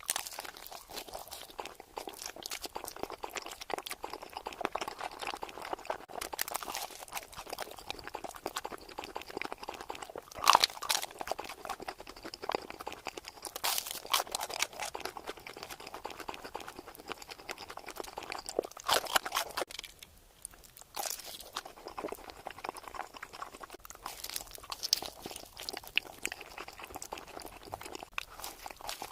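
Close-miked chewing and crunching of food, with dense crackly bites throughout and the loudest crunches about a third and two thirds of the way in.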